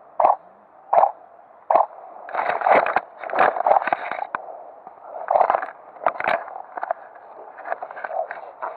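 Footsteps crunching through dry brush at a walking pace, a short burst about every three quarters of a second, then denser scraping and rustling of vegetation and gear from about two seconds in.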